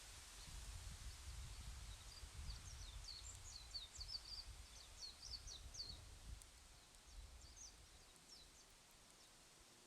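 Faint bird chirping: a quick run of short, high chirps for the first half or so, then a few more, over a low, unsteady rumble.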